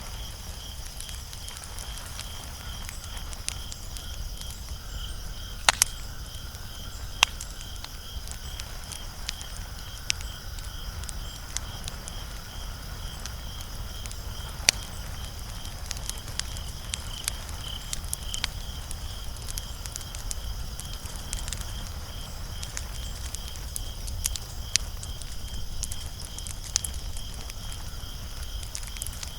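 Wood fire crackling: irregular sharp pops and snaps, a few much louder than the rest, over a low rumble of burning. A steady, evenly pulsed high chirping runs behind it throughout.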